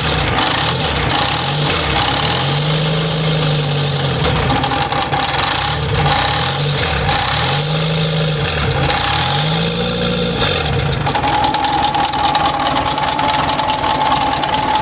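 VW Beetle's air-cooled flat-four engine running, its revs rising and falling a few times, with a loud metallic rattling noise over it. The owner thinks the noise is most likely the loose fan shroud and loose cooling fan banging, after a poor alternator installation.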